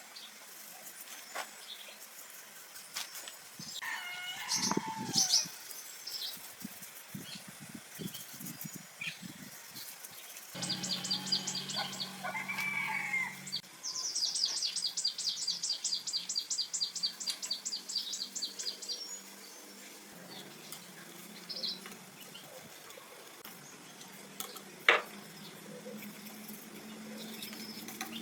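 Chickens and other birds calling, a few short rising-and-falling calls, with a fast run of high clicks midway and scattered small clicks and taps.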